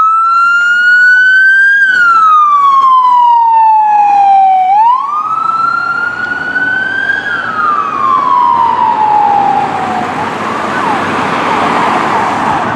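Electronic emergency-vehicle siren on the wail setting: two slow rise-and-fall cycles, each about five seconds long. In the last few seconds the wail fades under a rushing noise that has a faint rapid yelp behind it.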